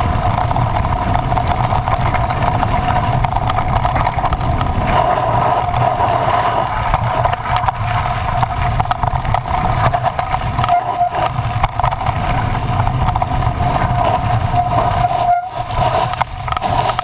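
Motor vehicle engine running steadily while under way: a low rumble with a held whine over it, briefly cut off near the end.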